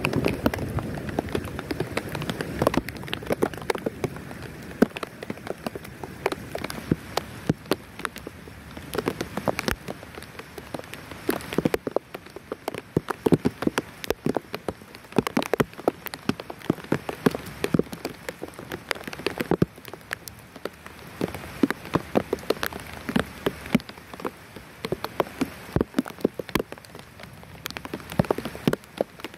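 Rain falling steadily, with many sharp, irregular drips. The tail of a thunder rumble dies away over the first couple of seconds.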